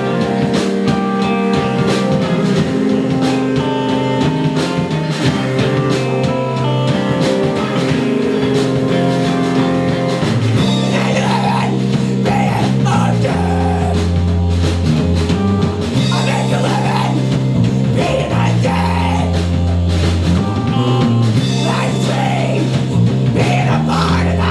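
A rock band playing live with electric guitar, bass and drum kit. Sustained guitar notes give way to a heavy bass line about ten seconds in, with a voice that may be singing near the end.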